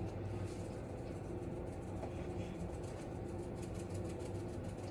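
Steady low background hum with a faint constant tone and no distinct knocks or clatter.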